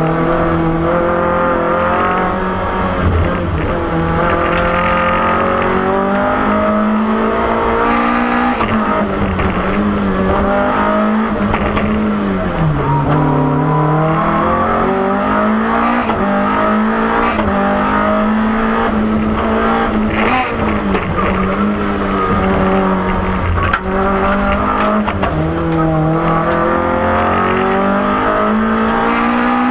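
BMW M3 E30 Group A rally car's four-cylinder engine heard from inside the cabin, driven hard: the revs climb through the gears and fall back again and again on lifts and downshifts, with one deep drop in revs about 13 seconds in.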